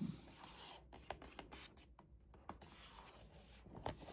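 Faint scratching and rubbing of fingers over a keyboard's cardboard box, with scattered light taps and clicks of handling.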